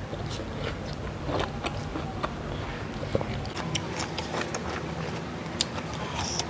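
Close-up eating sounds: crisp water apple chewed, with scattered wet clicks and crunches as a piece is dragged through sambal in a stone mortar, over a steady low hum.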